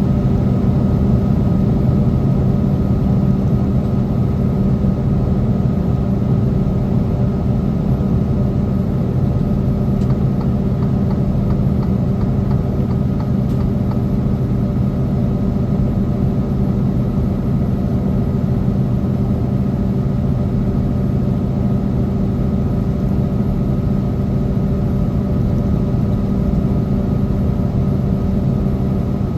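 Semi truck's diesel engine running steadily under load, a constant low drone with no change in pitch.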